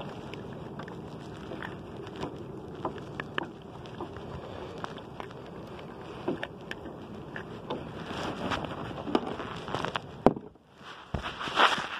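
Water sloshing against a kayak's hull, with many small knocks and taps on the hull. There is a sharper knock near the end, then a short loud splash.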